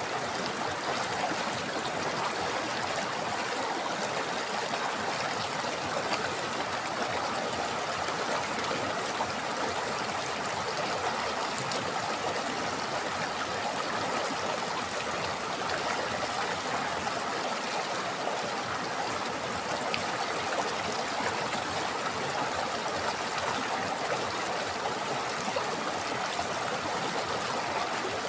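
A river's flowing water, a steady rush and babble of a stream over rocks with no let-up.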